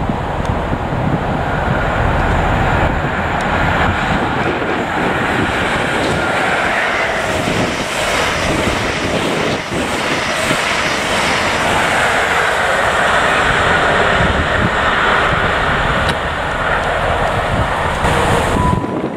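A Class 43 HST power car's diesel engine approaching at speed with a steady whine, then the coaches rushing past on the rails.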